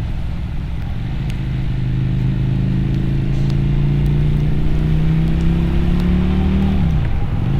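Motorcycle engine and exhaust pulling under load, its note climbing slowly and steadily for several seconds, then dropping sharply near the end as the revs fall.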